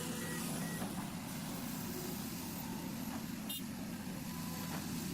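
Engines of heavy tracked machinery, bulldozer and excavator diesels, running steadily as they work to pull a stuck bulldozer from the mud. A single sharp click about three and a half seconds in.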